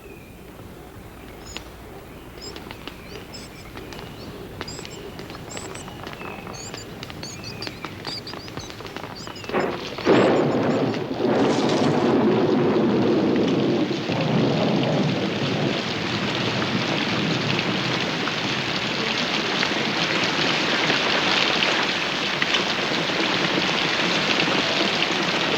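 Birds chirping over a slowly building patter of rain, then about ten seconds in a thunderclap and low rumble as a heavy tropical downpour sets in, a steady dense hiss of rain.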